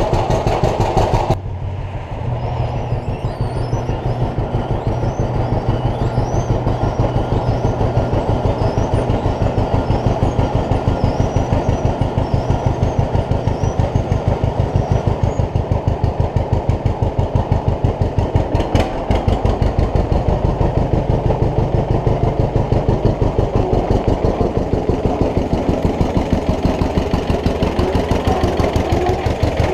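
1950 John Deere B's two-cylinder engine running with a steady, even beat on its first run after a cylinder-head overhaul. A brief sharp click about two-thirds of the way through.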